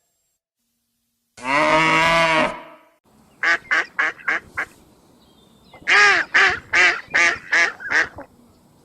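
Waterfowl calling: one long call about a second and a half in, then a quick run of four short honking calls, a pause, and seven more in quick succession.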